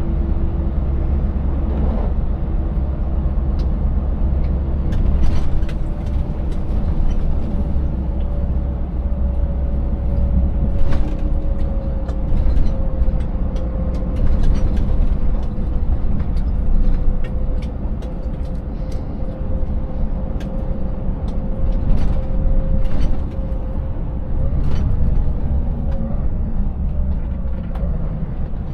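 Scania 590S V8 truck driving at a steady pace: a deep engine drone with a steady whine that sags slightly in pitch, and scattered sharp knocks and rattles over a road broken up by tyre chains.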